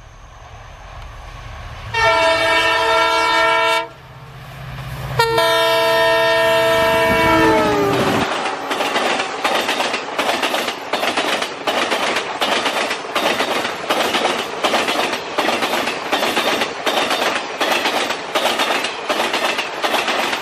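WDP4D diesel-electric locomotive approaching with a low rumble, then sounding its horn twice: a blast of about two seconds, then a longer one that drops in pitch as the locomotive passes. After that, the express's coaches clatter past at speed, their wheels clicking over the rail joints about twice a second.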